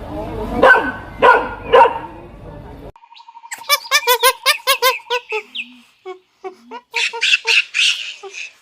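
A dog barks three times in the first two seconds. After an abrupt cut, a bird gives rapid runs of short pitched calls, about five a second, in two bouts with gaps between.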